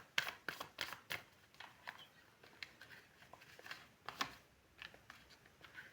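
Tarot cards being handled and laid on a table: a run of light, irregular clicks and flicks, busiest in the first second or so, with a louder one about four seconds in.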